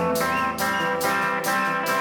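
Live rock band playing a song's instrumental intro: guitar chords over a steady beat of a little over two strokes a second.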